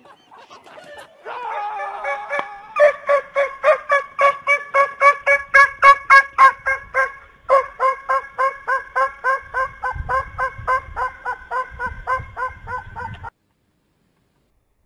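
Birds calling in a fast, even run of short, same-pitched notes, about four or five a second, for some ten seconds, then cutting off abruptly.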